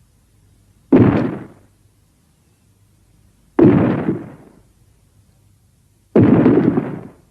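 Three heavy booms, evenly spaced about two and a half seconds apart, each hitting suddenly and dying away over about a second: a kaiju monster sound effect.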